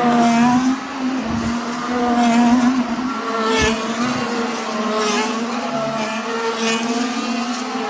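Formula 1 car's 1.6-litre turbocharged hybrid V6 engine running, a steady note with higher tones wavering up and down over it.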